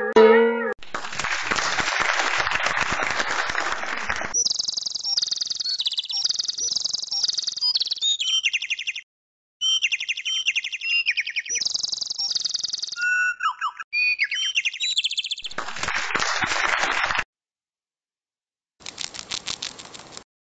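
A pet talking bird calling. A harsh, rasping screech opens, followed by a long run of high, repeated whistles and chirps that rise and fall, then a few falling whistles and a second harsh screech. After a short pause comes a rapid series of clicks near the end.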